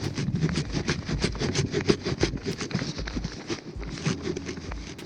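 Quick footsteps crunching through forest litter, with rustling clothing and thumps of the chest-mounted camera being jostled.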